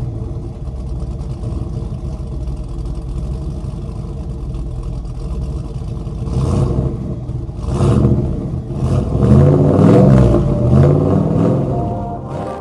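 Car engine running and revving, growing louder from about eight seconds in, with several short sharp blips in the second half.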